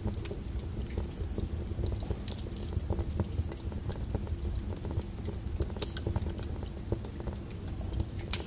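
Wood fire burning in a fireplace: a low steady rumble of flames with scattered crackles and snaps from the burning logs, and one sharper pop about six seconds in.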